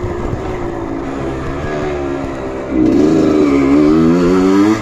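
Off-road motorcycle engine running, then revved harder about three seconds in, its pitch wavering and then climbing.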